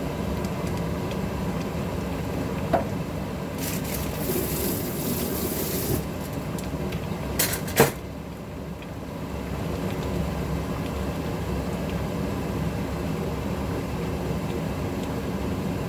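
Kitchen stovetop cooking: a steady low rumble, with a hiss lasting about two seconds early on and a couple of sharp knocks, like a utensil or lid against a pot, a little before the middle.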